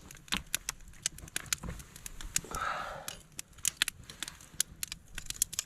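Campfire crackling, with frequent irregular sharp snaps and pops, and a short hiss about two and a half seconds in.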